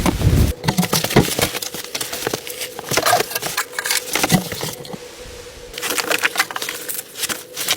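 Irregular run of short clicks and light knocks, easing off briefly about five seconds in, over a faint steady hum.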